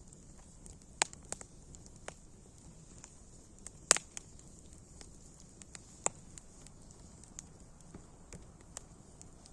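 Wood fire crackling: a steady low hiss broken by sharp, irregular pops, the loudest a bit under four seconds in.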